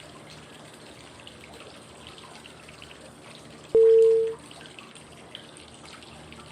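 Steady trickling, flowing-water white noise, with one short electronic cue tone about four seconds in: a single low beep lasting about half a second. It marks the switch to the next five-second phase of a 555 breathing exercise.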